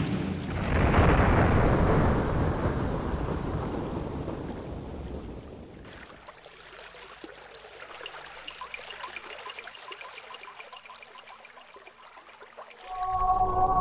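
A loud rumbling rush of noise swells about a second in and fades away over the next five seconds, leaving a faint patter. Music with steady held tones starts near the end.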